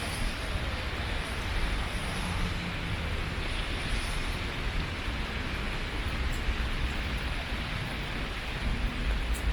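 Steady hiss of rain over a low, continuous rumble, with a few faint light ticks near the end.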